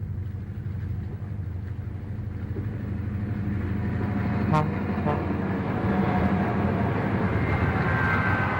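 Three EMD F7 diesel locomotives running past, their engines' steady drone growing louder as they approach, with two sharp clicks about halfway through and a higher steady tone near the end.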